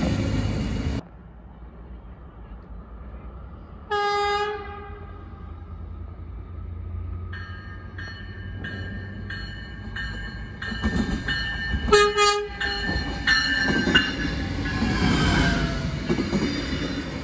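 NJ Transit River LINE diesel light-rail train (Stadler GTW): a short horn blast about 4 s in, then a bell ringing about one and a half times a second as the train approaches. A second short horn blast comes near 12 s, then the train passes close by with a rising and falling rumble of engine and wheels. It opens with the last second of another train pulling away, which cuts off suddenly.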